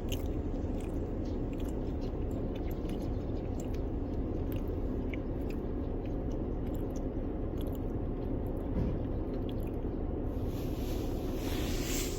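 A cat chewing and biting pieces of soft bread, with many small irregular wet clicks over a steady low background rumble.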